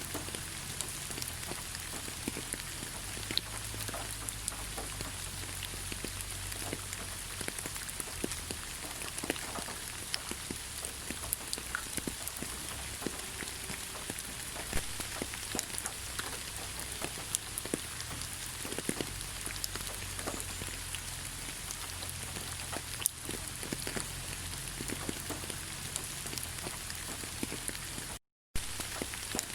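Steady rain falling in a forest: an even hiss with many separate drops ticking through it. The sound cuts out completely for a split second near the end.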